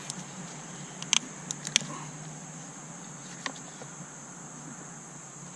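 A few sharp clicks and taps of plastic wiring-harness clips and hand tools being worked loose on an engine. Two clicks come close together about a second in, two more just after, and a last one at about three and a half seconds, over a steady background hum and hiss.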